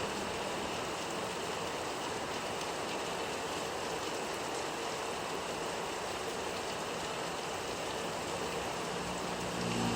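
Steady rain falling, an even hiss. A low hum comes in near the end.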